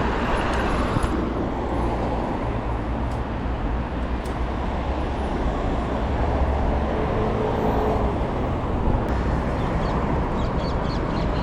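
Steady city street traffic noise, with cars passing and a continuous low rumble.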